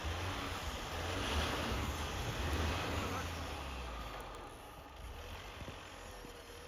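Mitsubishi L200 pickup engine running under load as the truck works through deep snow, dying down after about four seconds.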